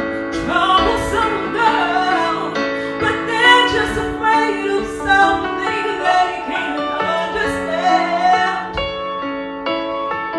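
A song cover: a sung voice holding and sliding through long notes over sustained chords.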